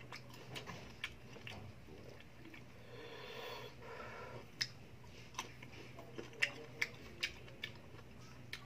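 Crunchy unripe green mango being bitten and chewed close to the microphone: sharp crunching clicks come one after another, with a denser stretch of chewing noise about three seconds in.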